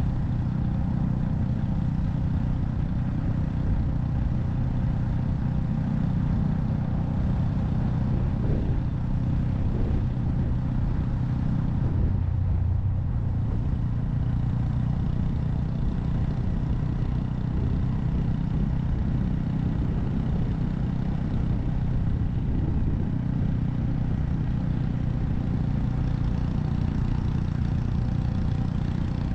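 Honda Monkey 125's single-cylinder four-stroke engine running steadily, with a brief change in its note about twelve seconds in.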